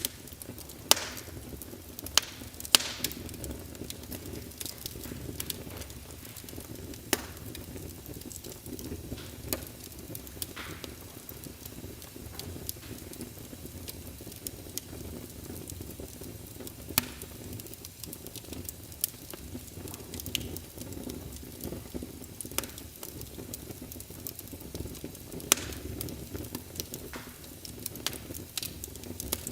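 Burning logs in a fireplace crackling, with irregular sharp pops and snaps over a steady low rumble of flames; the loudest pops come in the first few seconds and again near the end.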